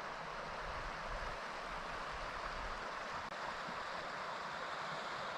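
Steady rushing of a creek's flowing water, an even hiss with no breaks.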